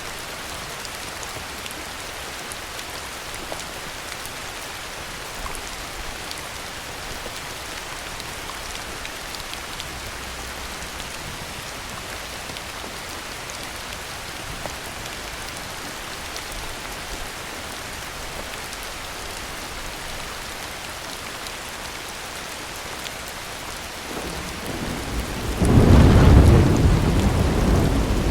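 Steady heavy rain falling. Near the end, thunder starts as a low rumble and builds to a loud, deep crack-and-roll that carries on.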